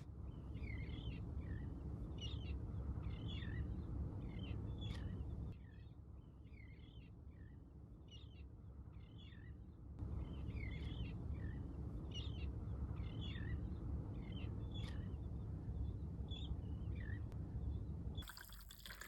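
Small birds chirping in quick, repeated short calls over a steady low rumble; the rumble drops away for a few seconds in the middle and the chirping thins.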